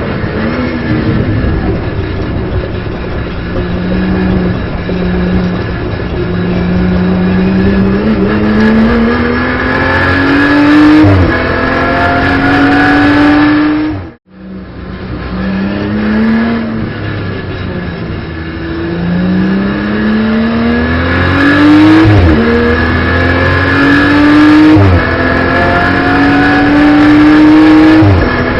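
BMW M240i Racing Cup's turbocharged straight-six accelerating hard, heard onboard. Its pitch climbs and drops sharply at each upshift, several times over. The sound cuts out for a moment a little past halfway.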